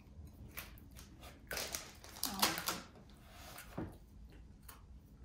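Crisp crackling crunches and clicks of a thin, crunchy cheese breadstick being bitten and chewed, loudest about two and a half seconds in, with one more crunch near four seconds.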